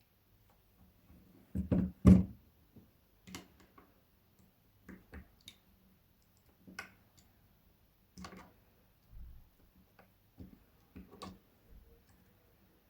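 Scattered clicks and taps of small parts and tools being handled on a repair bench, as phone flex connectors are pressed on for testing. Two louder knocks come close together about two seconds in, followed by lighter clicks every second or so.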